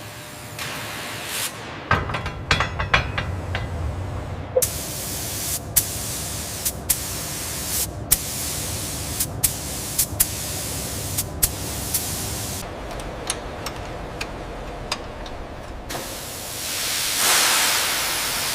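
Spray hissing in repeated bursts broken by short pauses, with scattered clicks and a low rumble underneath; the hiss swells once more near the end.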